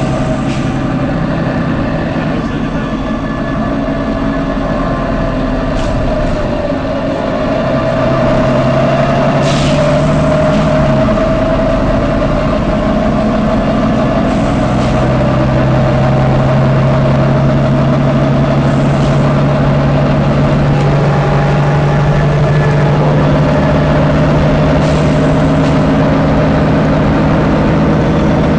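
Volvo B9TL double-decker bus's six-cylinder diesel running, its note shifting and growing louder in two steps, with several short 'tsh' hisses of released air from the bus's air system.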